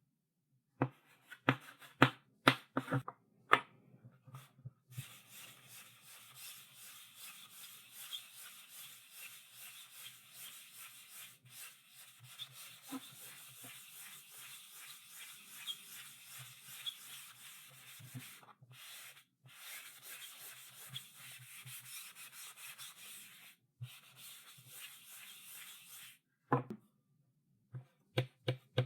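Chalk on a blackboard: a cluster of sharp taps and short strokes, then about twenty seconds of continuous scratchy rubbing with a few brief breaks, then a few more taps near the end.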